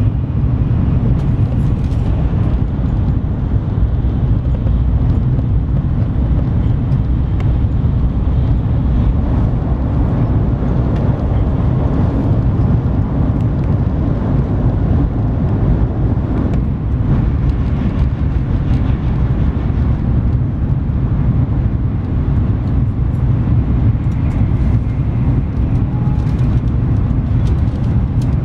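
N700S Shinkansen running at high speed, heard from inside the passenger cabin: a steady, deep running noise with no breaks.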